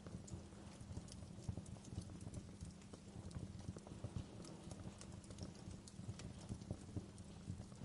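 Fireplace wood fire crackling: dense, irregular small crackles with occasional sharper pops over a low rumble of the flames.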